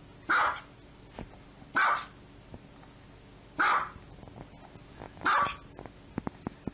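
Small dog barking: four short single barks, about a second and a half apart, with a few faint clicks near the end.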